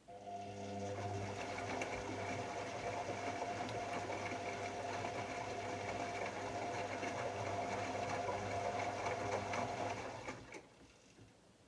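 AEG Lavamat L74810 washing machine motor starting, running steadily with a hum and a whine for about ten seconds, then stopping, followed by a click.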